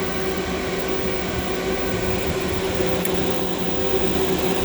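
TurboChef SOTA oven's fans running steadily in cooldown mode after a hot cook cycle: an even hum with a few constant tones.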